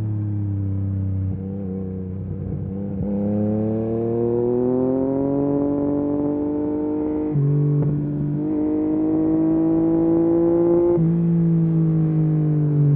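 Yamaha MT-09 SP's three-cylinder engine breathing through a full Akrapovic race exhaust under way, rising in pitch as it pulls through the revs, with a brief break about seven or eight seconds in, then falling as the throttle eases near the end.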